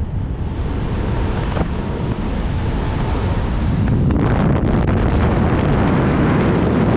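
Strong wind buffeting the microphone in flight under a tandem paraglider, a steady rushing noise that grows louder and more gusty about four seconds in.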